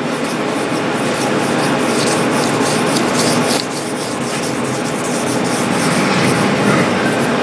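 Kitchen knife blade being stroked back and forth on a water-soaked 6000-grit whetstone, a wet rhythmic rasping in even strokes, for the fine polishing stage of sharpening. It lets up briefly about halfway, then carries on.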